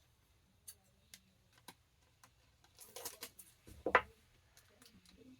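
Handling noise of a book being taped with packing tape: scattered light clicks, a short scratchy rustle about three seconds in, and a single knock about four seconds in.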